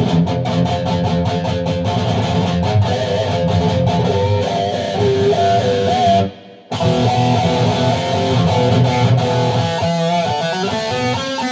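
Electric guitar played with a pick, a passage of notes with bent pitches, picked to demonstrate pick harmonics. The playing stops for a moment about six seconds in, then starts again.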